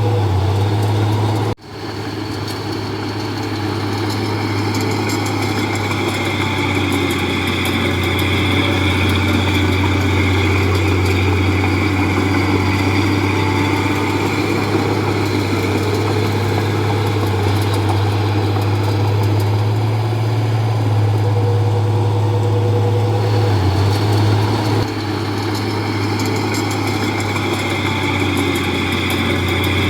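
Komatsu D31P bulldozer's diesel engine running steadily. There is a brief drop-out about a second and a half in, and a slight change in its sound about 25 seconds in.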